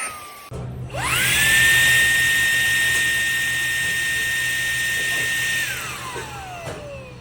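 Shark WV201 WandVac handheld vacuum switched on: its motor whine rises quickly about a second in, holds a steady pitch, then winds down and stops near the end as it is switched off.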